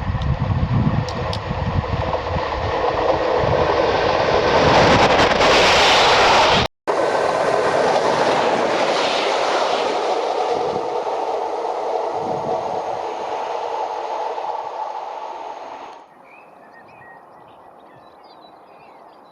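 Royal Scot class steam locomotive passing, with wheels clattering over the rails. It is loudest about six seconds in, then fades away and cuts off abruptly near the end, leaving faint birdsong.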